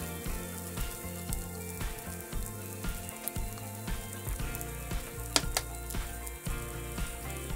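An oatmeal rice ball frying on cooking paper in a pan over medium heat: a steady sizzle with fine crackling, and two sharper pops about five seconds in. Background music plays underneath.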